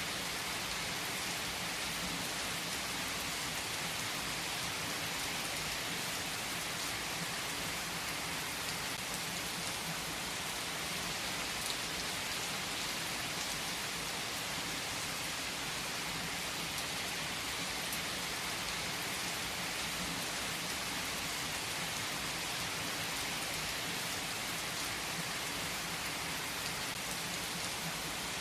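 Steady rain falling, an even patter with faint individual drop ticks and no change in level.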